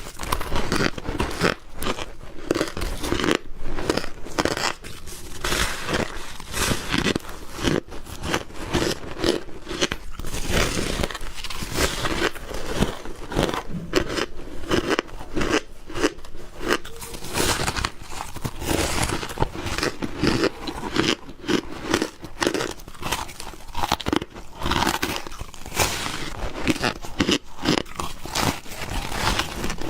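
Ice being bitten and chewed close to the microphone: a dense, continuous run of crunches and crackles.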